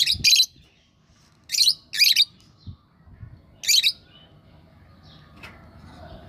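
Lovebirds giving short, shrill chirping calls: five sharp calls in three groups, a pair at the start, another pair about a second and a half in, and a single call near four seconds.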